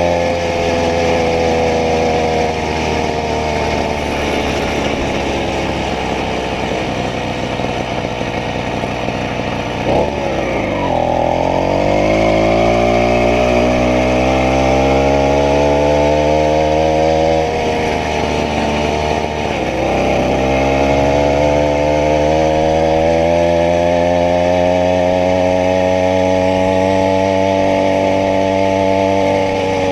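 Small 80cc two-stroke bicycle engine running. Its pitch drops sharply about ten seconds in and climbs back up, then dips again and recovers about two-thirds of the way through.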